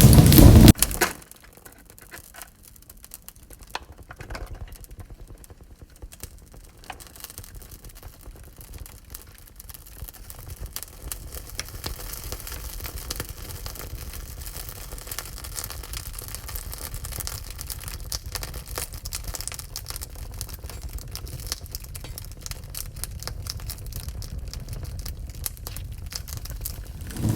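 Wood fire in a wood-burning stove crackling and popping softly over a low rumble, the crackles slowly growing louder. A louder rushing sound cuts off suddenly about a second in.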